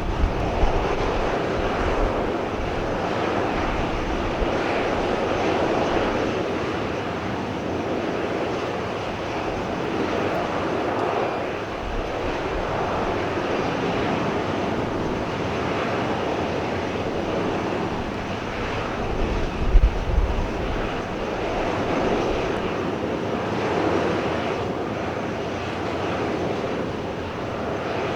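Boeing 737-800's CFM56-7B jet engines running steadily, with slow swells in loudness. Gusts of wind buffet the microphone briefly near the start and again about two-thirds of the way through.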